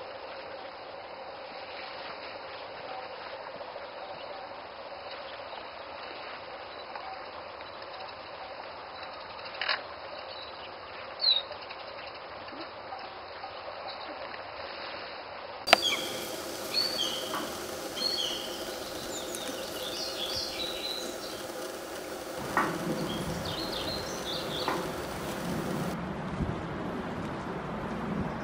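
Outdoor ambience: a steady background hiss with a couple of faint brief sounds. About halfway through, small birds start chirping repeatedly in the background over low background noise.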